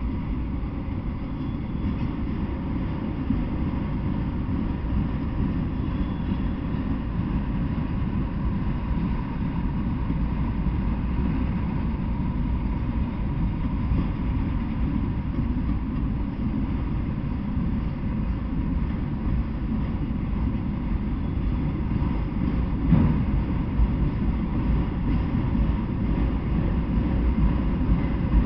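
Freight train of autorack cars rolling past: a steady low rumble of steel wheels on the rails, with a louder clunk about three-quarters of the way through.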